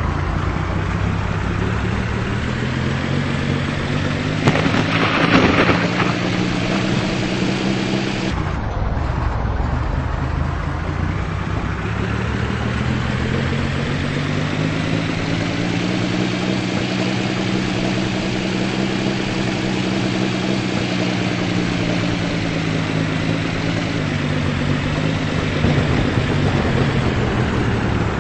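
Car engine and road noise while driving, the engine pitch rising and falling as the car speeds up and slows down. A brief burst of broad noise comes about five seconds in.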